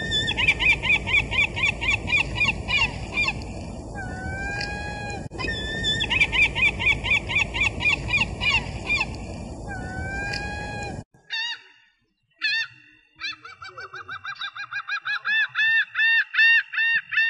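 Gulls calling: quick runs of repeated laughing calls and a drawn-out gliding call over a steady rushing noise, the same stretch heard twice. After a short break, a clean series of quick repeated gull calls begins and grows louder toward the end.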